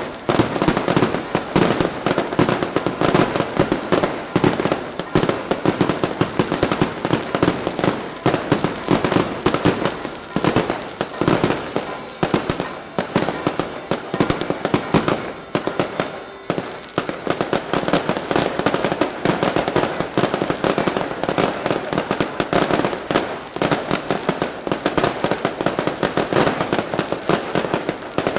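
Dense, continuous barrage of daylight fireworks: rapid firecracker-style reports, many a second, with a brief lull about two-thirds of the way through before the volley picks up again.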